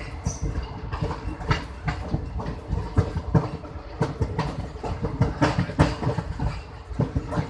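Passenger train coaches rolling along the track, their wheels clattering over rail joints in a continuous run of irregular knocks over a steady rumble.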